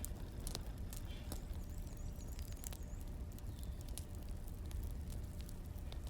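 Firewood burning, crackling with scattered sharp pops and clicks over a steady low rumble.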